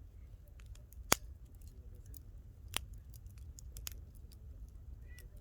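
Wood campfire crackling: scattered sharp pops and snaps, the loudest about a second in, over a low steady rumble.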